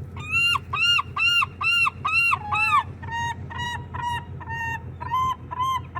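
Gulls calling: a rapid series of loud, clear, arched notes, about two to three a second, followed from about three seconds in by a somewhat quieter run of flatter, steadier notes.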